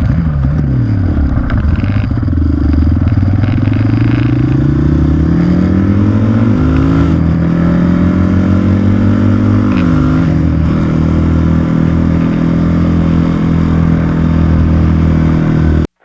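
Motorcycle engine under way. Its pitch falls at first, then climbs as it accelerates, drops sharply at an upshift about six and a half seconds in and again at about ten seconds, and then holds steady at speed.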